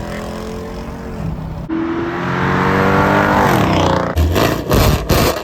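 Car engine revving through its exhaust: a steady note, then a louder rev that climbs in pitch and falls back, ending in several loud sharp cracks near the end.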